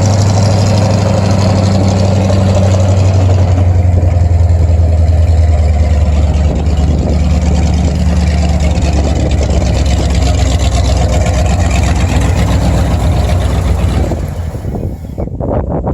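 Silage truck engine running steadily at idle, a deep, even hum that falls away near the end.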